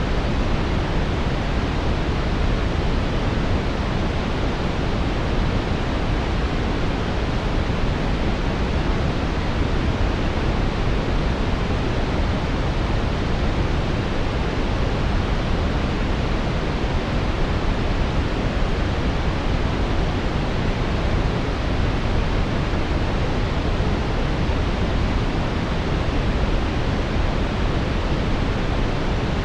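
Brown noise: a steady, unchanging hiss, deepest and strongest in the low end and thinning out toward the top.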